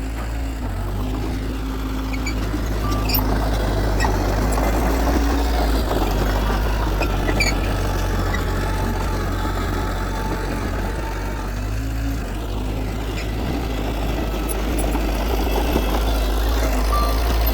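Diesel engine of heavy earthmoving machinery running steadily at a constant pitch, with scattered light clicks and clanks over it.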